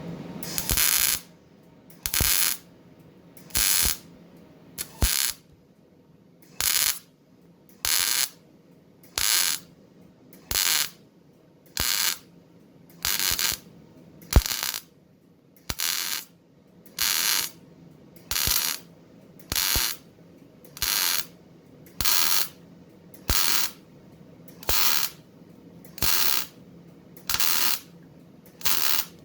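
Sherman 200M MIG welder running 0.8 mm wire, laying a stitch weld: short bursts of arc crackle, one about every one and a half seconds, about twenty in a row, each starting with a sharp click.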